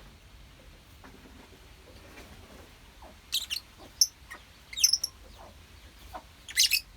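Lovebirds in a colony giving short, shrill chirps in quick clusters, the first about three seconds in and the longest burst near the end.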